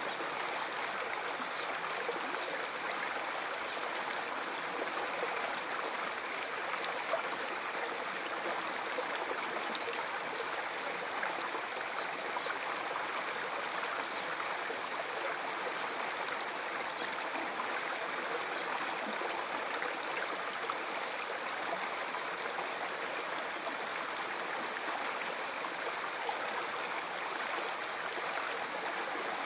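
A river flowing over rocks: a steady, even rush of running water with a gurgling, trickling texture.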